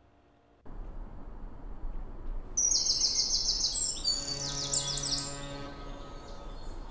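Outdoor background noise that cuts in suddenly, then a bird chirping in quick runs of short falling notes for about three seconds. A low steady hum sounds under the chirps for more than a second near the middle.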